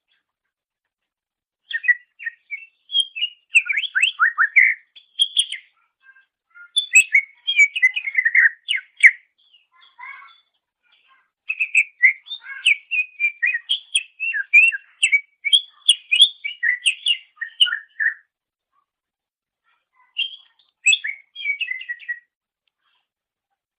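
Greater green leafbird (cucak ijo) singing fast runs of varied whistled notes, in four bursts separated by short pauses.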